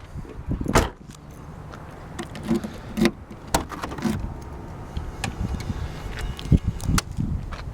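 Scattered knocks and clicks, about half a dozen, from handling the parked car, over a steady low rumble.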